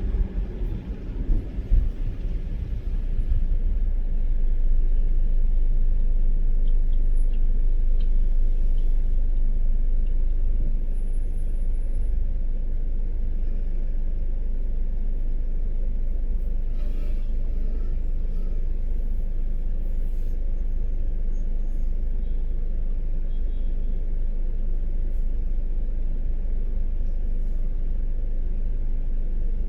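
Steady low rumble of a car driving, made of road and engine noise. It is uneven for the first few seconds, then settles to an even level.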